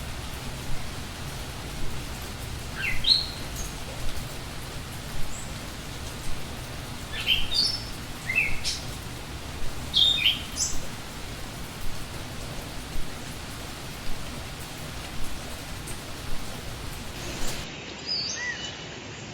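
Forest ambience: a steady hiss like rain, with wild birds giving short, sharply rising chirps in a few clusters. Near the end it changes to a duller recording with other birds calling.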